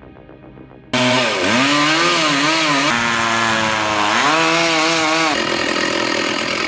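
Chainsaw cutting in suddenly about a second in, its engine revving so the pitch falls and rises several times, then running at a steadier high speed with a rougher, noisier sound, as when the chain is in the wood.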